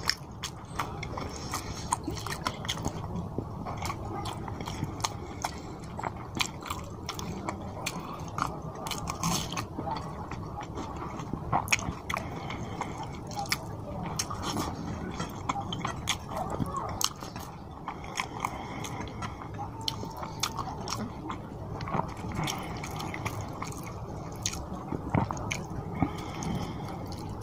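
Close-miked wet chewing and mouth sounds of a person eating fish curry and rice by hand, with many short sharp clicks and smacks.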